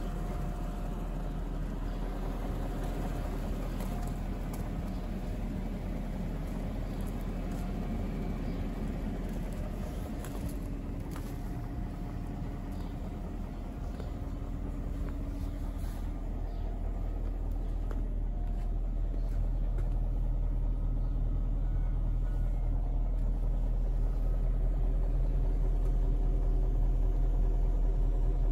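BMW 740i E38's 4.4-litre V8 idling steadily while warming up after a cold start, a low rumble that grows somewhat louder in the second half.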